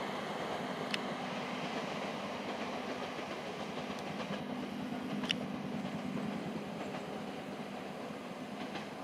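Electric commuter train running along the track, a steady rumble that slowly fades as it moves off, with a faint hum and two sharp clicks about one and five seconds in.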